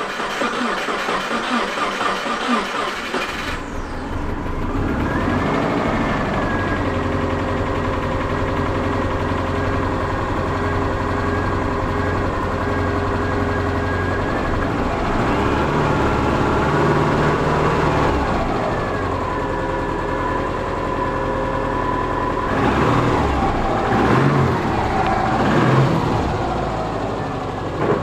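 2003 Subaru boxer engine running on its first start after a rebuild. It sounds busy and rough for the first few seconds, then settles into a steady idle, and turns uneven again near the end.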